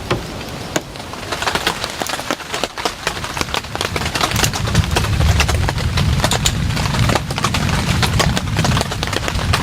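Heavy rain on a tent, with many sharp, irregular ticks of drops hitting the fabric over a low rumble that swells about halfway through.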